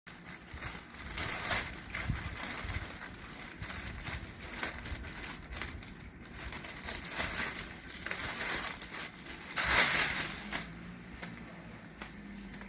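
Irregular rustling and crinkling with scattered clicks, as of something being handled, with a louder rustle about ten seconds in.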